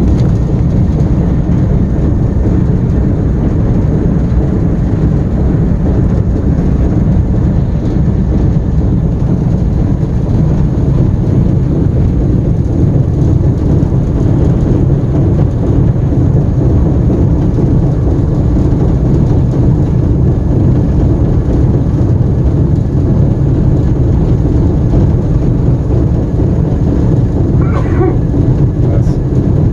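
Diesel-electric locomotive's engine running at low throttle in notch 1, heard from inside the cab as a steady, heavy rumble while the locomotive coasts along the rails.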